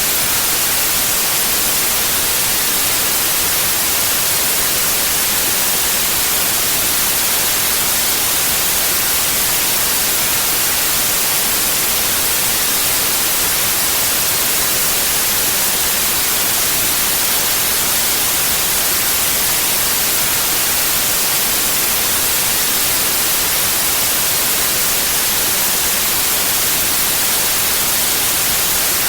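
Steady synthetic white noise: an even, unchanging hiss, strongest in the treble.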